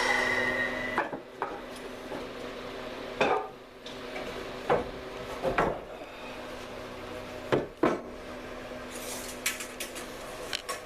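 Scattered knocks and clatter of wooden boards and tools being handled on a workbench, about a dozen separate hits with a cluster near the end. A faint steady hum runs underneath.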